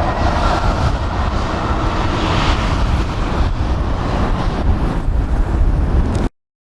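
Jet airliner's engines running with a steady rumble under heavy wind buffeting on the microphone; the sound cuts off abruptly about six seconds in.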